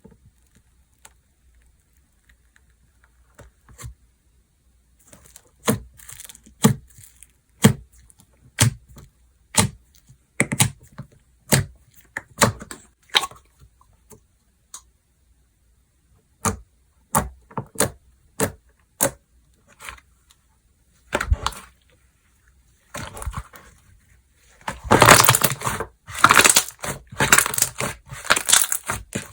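Slime being pressed and worked by hand: a string of sharp pops about once a second, then a denser run of crackling and tearing near the end.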